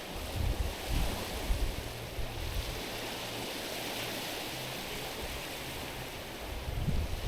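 Small ocean waves washing onto a stony beach, a soft hiss of surf that swells and falls back around the middle. Wind rumbles on the microphone about a second in and again near the end.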